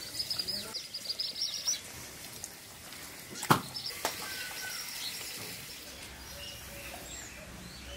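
Small birds chirping: a fast run of high chirps in the first second and a half or so, then scattered calls, with one sharp click about three and a half seconds in.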